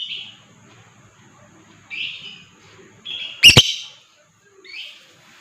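Lovebird giving short, harsh, scratchy chirps, about five separate calls, with one much louder, sharp call about three and a half seconds in.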